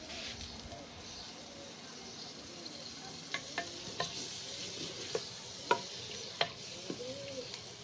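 Brinjal and onion masala sizzling as it fries in a clay pot, stirred with a wooden spoon. From about three seconds in, the spoon knocks and scrapes against the clay pot several times over a steady frying hiss.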